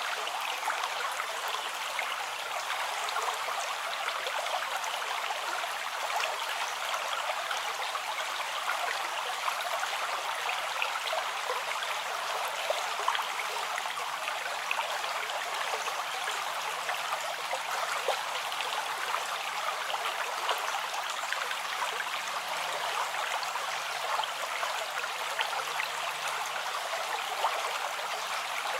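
Steady rushing and babbling of a flowing stream over rocks, an even wash of water noise with small splashes throughout.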